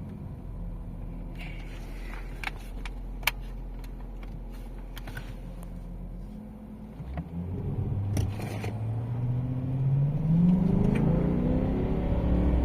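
BMW E38 740d's V8 diesel running steadily at low revs, then, about seven seconds in, the engine note climbs and grows louder as the car accelerates hard from standstill. A couple of sharp clicks come early on, while the engine is still at low revs.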